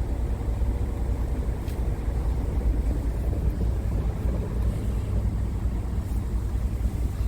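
Scania R tractor unit's diesel engine idling: a steady low rumble.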